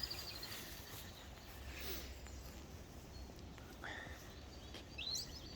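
Small birds calling in short chirps: a quick run of notes at the start, a short call about four seconds in and a rising call about five seconds in, over a faint steady background hiss.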